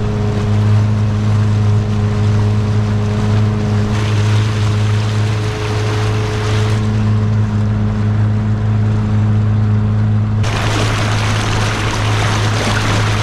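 Outboard motor of a small inflatable boat running steadily under way, a constant low hum. About ten seconds in, a loud rushing hiss joins it.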